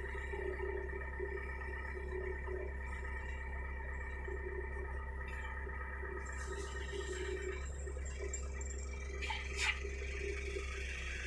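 Hitachi mini excavator's engine and hydraulics running steadily with a constant whine over a low drone, and a brief knock about nine seconds in.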